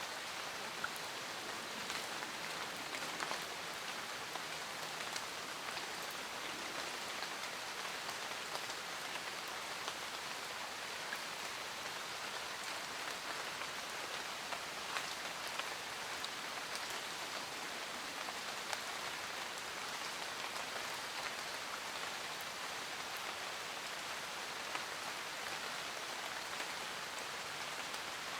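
Steady rain falling, an even hiss with many small, distinct drop ticks spattering on surfaces throughout.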